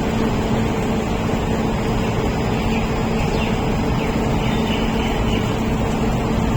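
Heavy machinery running steadily, a constant mechanical drone that holds one pitch, with faint high squeaks around the middle.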